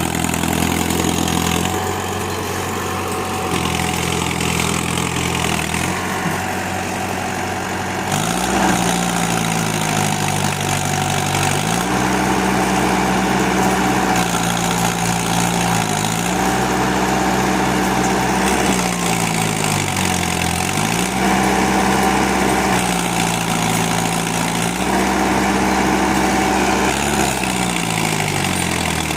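Tractor diesel engine running steadily, its note dipping and climbing back again several times, as under changing load or throttle.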